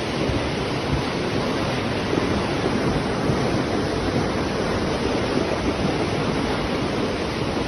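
Steady, loud rushing of fast-flowing floodwater, an even unbroken roar of water with no distinct tones or beats.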